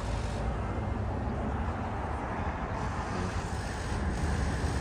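Steady low rumble of vehicle noise with an even background hiss, no distinct events.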